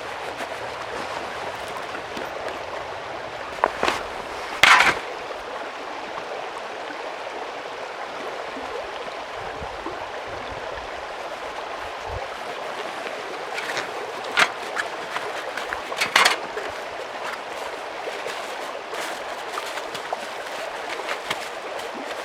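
Mountain stream running steadily, with a few sharp knocks and clatters on top, the loudest about five seconds in and a cluster around two-thirds of the way through.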